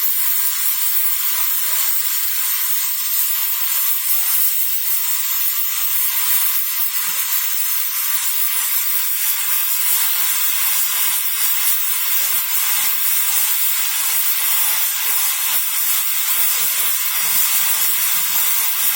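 Oxy-fuel cutting torch on a CNC cutting machine, its flame burning with a steady, even hiss.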